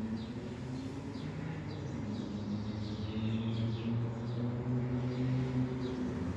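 Small birds chirping in the background, short high falling chirps about twice a second, over a steady low hum.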